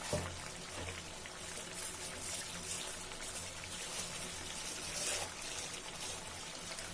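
Chicken and melted tomato sizzling in a kadai: a steady crackling hiss. There is a short knock just after the start.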